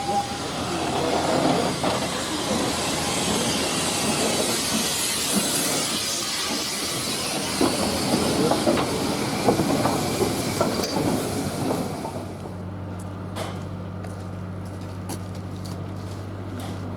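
A train running past at close range, its wheels clattering over the rail joints with a hiss, for about twelve seconds. It gives way abruptly to a steady low hum with occasional clicks.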